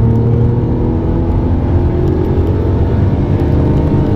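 Supercar engine accelerating under power, heard from inside the cabin, its pitch rising steadily.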